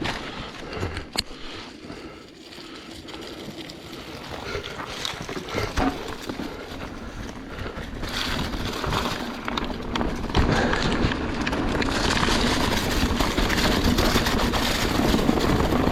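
Mountain bike riding down a trail: tyres running over the ground and the bike rattling, with many short knocks. It gets louder about halfway through.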